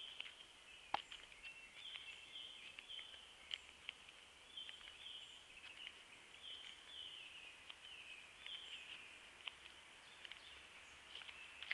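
Faint woodland birdsong: short chirping phrases repeated about every second and a half, with scattered small clicks and one sharper click about a second in.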